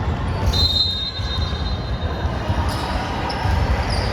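Basketball bouncing and players' footsteps thudding on an indoor court, with a thin high tone about half a second in and brief sneaker squeaks later on.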